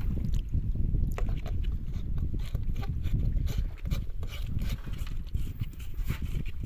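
Low rumble of wind on the microphone, with a scatter of short knocks and taps on the wooden boat, coming thicker in the second half.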